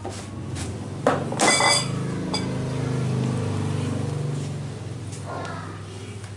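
Spoons or chopsticks clinking against ceramic bowls a few times while eating, followed by a low, drawn-out rumbling sound lasting a few seconds.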